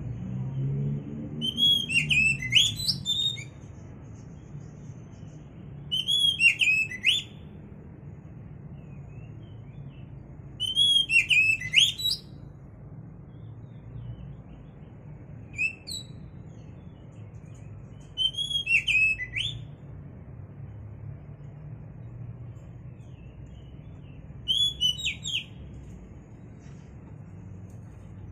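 A songbird singing short whistled phrases of rising and falling notes, one every four to six seconds, over a steady low hum.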